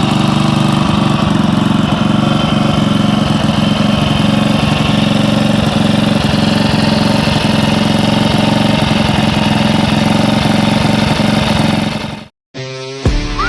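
Honda C200's single-cylinder OHV four-stroke engine, its top end freshly overhauled, running steadily at idle. The sound cuts off suddenly near the end, and guitar music starts.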